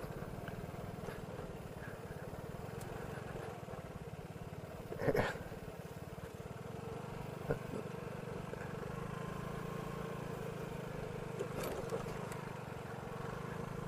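Vespa scooter engine running steadily while riding at an even pace. A short, louder noise comes about five seconds in.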